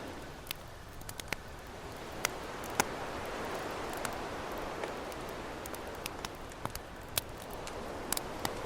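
Campfire crackling, with irregular sharp pops, the loudest two close together near the third second, over a steady wash of ocean surf.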